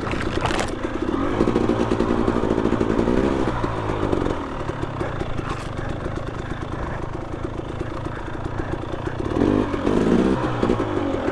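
Two-stroke dirt bike engines running at low trail speed, with the revs rising and falling as the throttle is worked, about three seconds in and again near the end.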